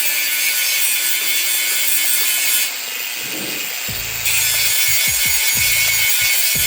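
Cast-iron pot lid being sanded: a steady, loud abrasive scraping, softer for a second and a half about three seconds in.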